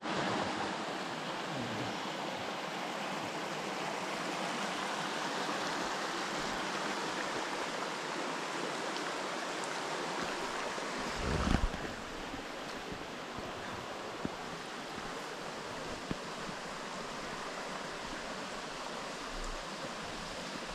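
Steady rush of flowing water, like a stream or waterfall, with a brief low bump about halfway through.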